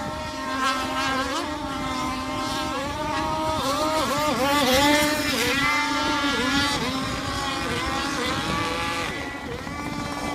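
32cc Zenoah two-stroke gas engine of an RC sport hydro boat running at speed, its pitch dipping and recovering over and over as the throttle and load change. It is loudest about halfway through.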